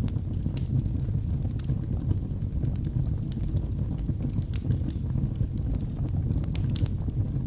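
Wood fire burning in a fireplace: a steady low rumble of flames with scattered, irregular sharp crackles and pops from the burning logs.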